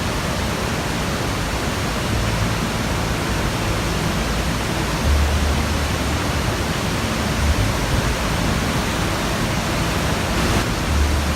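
Steady roar of Victoria Falls, the Zambezi River's water plunging into the gorge. A low rumble swells briefly about five seconds in and again near the end.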